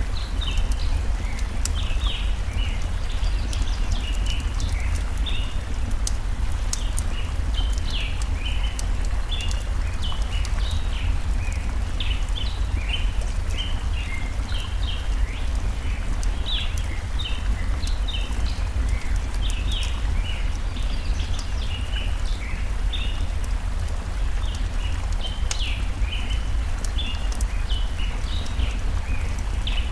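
Forest ambience: a stream running with a steady low rush, small birds chirping over it in quick short high calls, and now and then the sharp crackle of a campfire.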